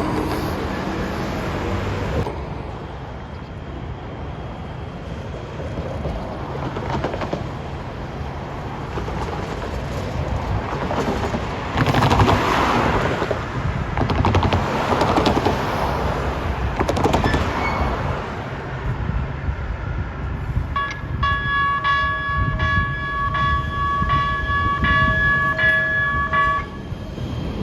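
Metro Rail train running, a continuous rumble of wheels on track. About three-quarters of the way in, its horn sounds one long steady blast of about five seconds and then cuts off.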